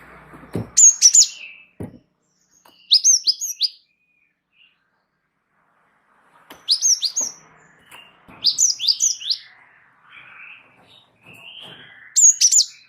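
Gelatik wingko (cinereous tit) singing: loud, clear phrases of three or four quick, high, down-slurred notes, repeated five times with pauses between. Two brief low thumps come in the first two seconds.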